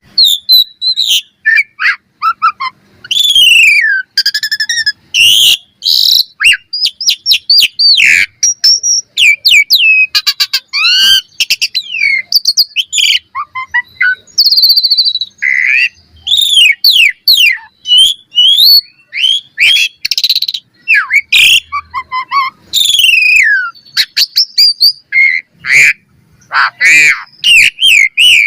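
Asian pied starling (jalak suren) singing a long, varied song: clear whistles sliding up and down in pitch, mixed with harsh chattering and rapid clicks, in phrases broken by short pauses.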